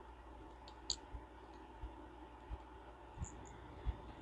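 Faint, scattered clicks of small metal parts of a Ted Williams 540 push-button fishing reel being handled and worked during reassembly, about five over a few seconds, irregularly spaced.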